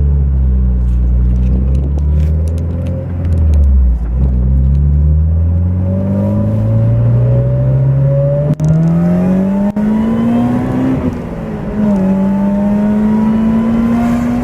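Car engine accelerating through the gears. Its pitch climbs steadily and drops sharply at upshifts about four seconds and about eleven seconds in.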